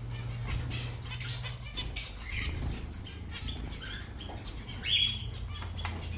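Small birds, zebra finches, fluttering their wings with a few short high chirps, over a steady low hum.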